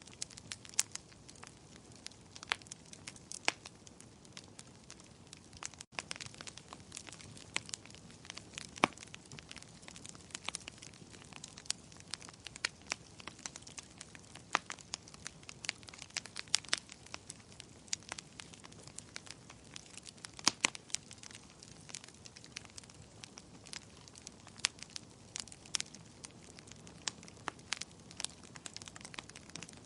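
Fire in a fireplace crackling: irregular sharp pops and snaps over a low steady hiss, with a brief dropout about six seconds in.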